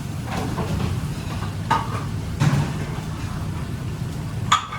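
Kitchen noise: a steady low hum with a few clinks and clatters of utensils and pans, the sharpest clink near the end.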